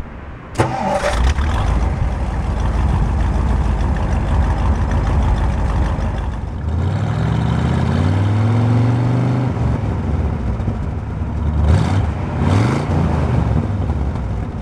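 1957 Ford Thunderbird V8 starting with a sudden catch about half a second in and running, then revved with its exhaust note rising and falling in pitch, and two quick blips near the end.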